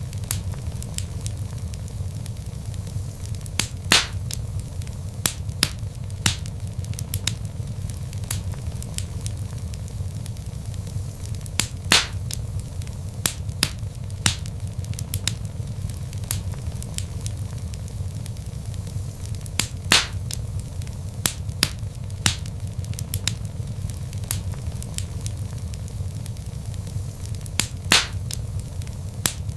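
Log fire in a fireplace crackling: a steady low rumble of flames with frequent sharp pops and snaps. The loudest pops come about every eight seconds.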